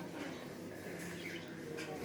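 Birds chirping softly, a few short calls over a low steady background.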